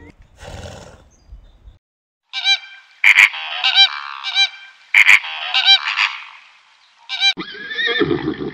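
Domestic fowl calling, a rapid run of repeated overlapping calls from about two seconds in until about seven seconds in, with two sharp clicks among them. A different, denser animal sound starts near the end.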